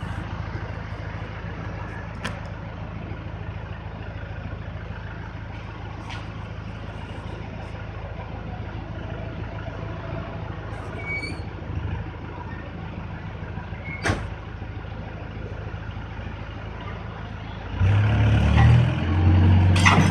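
Volvo 55 compact excavator's diesel engine running steadily at low revs, with a few sharp knocks. Near the end it gets markedly louder as the engine revs up under load.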